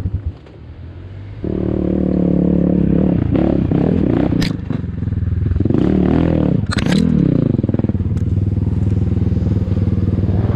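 Enduro dirt bike engine running: it drops low for about the first second and a half, then picks up and is revved up and down several times, with two short hissing bursts in the middle, before settling to steady running.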